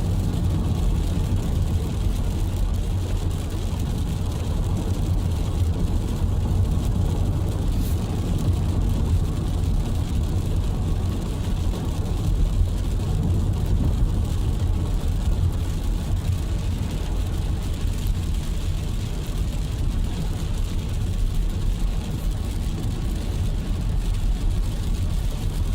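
Steady low rumble of a car heard from inside the cabin, engine and road noise with no breaks.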